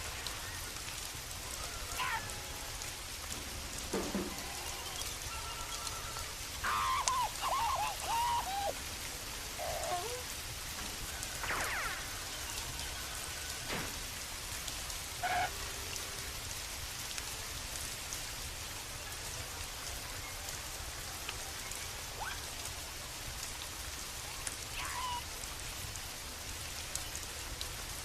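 Steady rain falling, with a low rumble underneath. A few short wavering pitched sounds rise out of the rain here and there, the longest about seven seconds in.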